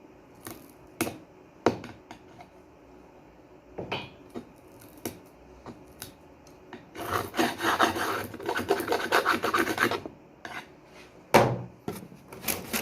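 Hand work on a sliding shower-door fitting: scattered light clicks and taps, then about three seconds of steady scraping and rubbing, and a sharp knock near the end.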